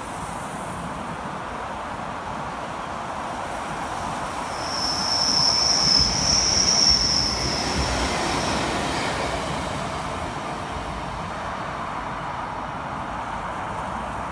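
Three-car SL Roslagsbanan narrow-gauge electric train (X10p motor car with UBp and UBxp trailers) passing close by, its rumble swelling and fading. A high-pitched squeal from the running gear sounds for about four seconds in the middle, the loudest part, as the cars go by.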